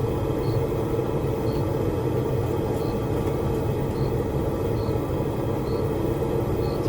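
A forge running with a steady roar while the steel heats, with faint short high chirps about once a second.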